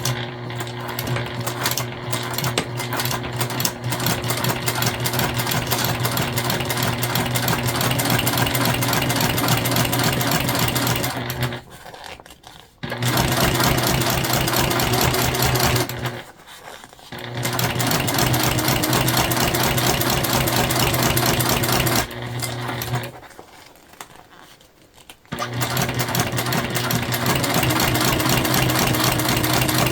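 Sewing machine topstitching through jelly vinyl, the motor running with a rapid needle rhythm. It stops and restarts three times, each pause lasting a second or two.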